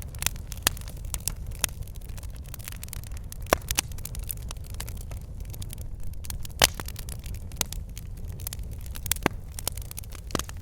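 Wood fire burning in a fireplace: a steady low rumble of flames with irregular crackles and pops of the logs, the sharpest pops a few seconds apart.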